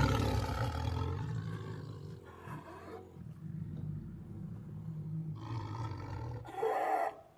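Tiger roaring: a loud roar right at the start fades over about two seconds into a low rumble, then a second, shorter roar comes near the end.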